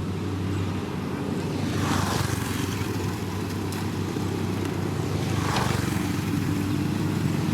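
Heavy road-construction machine's engine running steadily with a low hum. Two brief rushes of noise rise over it, about two seconds in and again near five and a half seconds.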